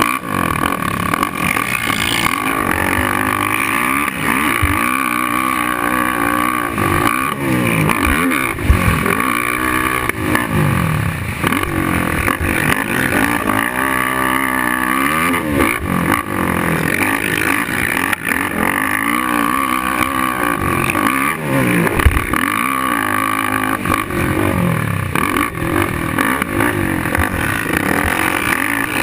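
Suzuki LTR 450 quad's single-cylinder four-stroke engine revving up and down repeatedly under hard riding, the pitch rising and dropping every second or two. Two sharp knocks stand out, about a third of the way in and again about three-quarters through.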